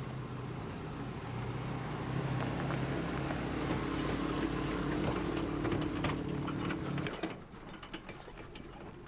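Vehicle engine and road noise, a steady low drone while driving, that drops away suddenly about seven seconds in, leaving a quieter hiss with a few light clicks.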